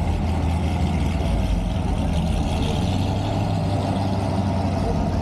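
A car engine running steadily at low speed, a deep even drone with no revving.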